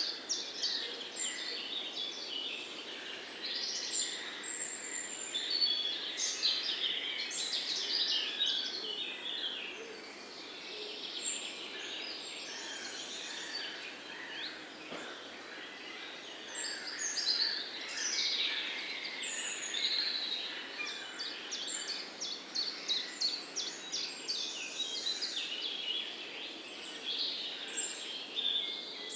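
Several songbirds chirping and singing at once, a busy mix of quick trills, rapid repeated chirps and short high whistles over a soft steady background hiss. The chorus thins out for a few seconds midway, then picks up again.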